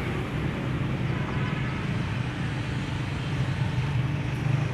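Steady low rumble of outdoor background noise, like road traffic, with no distinct events.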